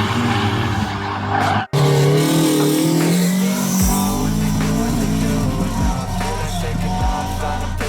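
Race car at a hillclimb with its engine howling and tyres squealing, cut off abruptly just under two seconds in. Music with a deep, steady bass line follows.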